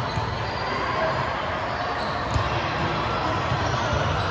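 Echoing gym sound of an indoor volleyball game, with a ball struck sharply about two seconds in over the steady hum of the hall.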